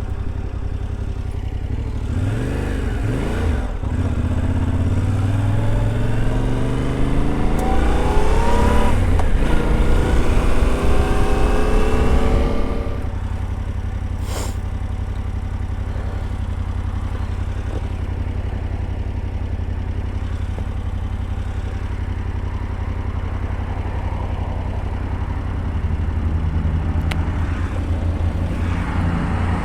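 Yamaha Tenere 700's 689 cc parallel-twin engine accelerating: the engine note rises twice in the first half, the second after a gear change. About halfway through the throttle closes and the engine drops to a steady, lower cruising sound, picking up again slightly near the end.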